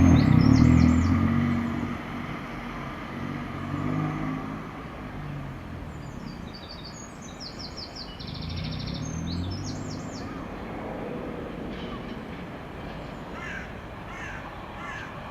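Class 37 diesel locomotive's English Electric V12 engine working hard as it passes, loudest at first and fading within about two seconds. The hauled train then rolls by with a quieter, rising and falling engine note and bursts of rattling from the wheels.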